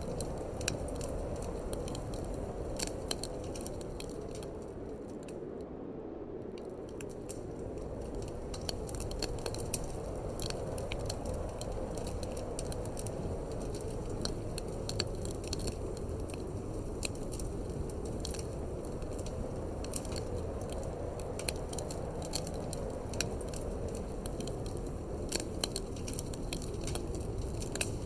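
Wood fire in a fireplace crackling, with frequent irregular sharp pops, over a steady low rush of wind.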